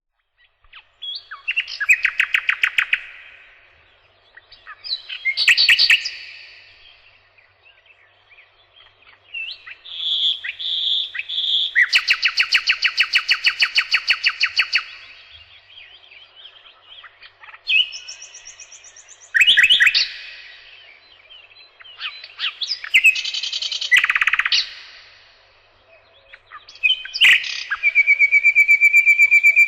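A songbird singing: short phrases of rapid high trills and chirps, separated by pauses of a couple of seconds, ending in a long buzzy trill held on one pitch.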